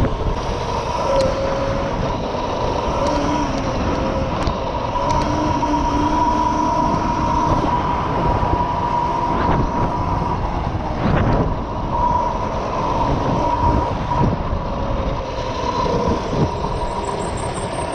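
Mini bike engine running under way on an off-road trail, a steady whine over a rough rumble of the ride, with a few knocks and rattles.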